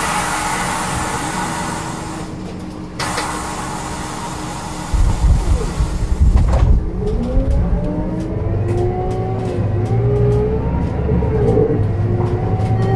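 Two long bursts of compressed-air hiss from the bus's pneumatics, then the Scania DC9 diesel pulling the bus away. Its rising whine climbs and steps back several times as the ZF Ecomat automatic gearbox shifts up.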